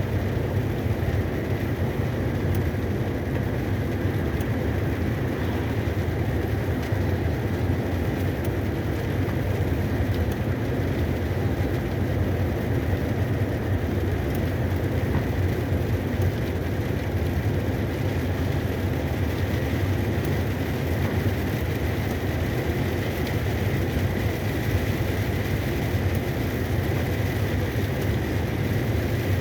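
Cargo truck on the road: a steady low engine and road rumble, unchanging throughout, with a faint steady whine above it.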